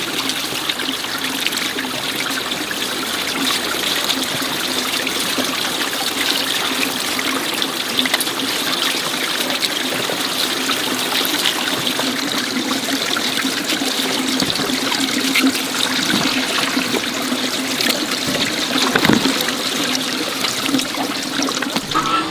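Steady rush and trickle of running water, a dense even splashing with fine crackles throughout.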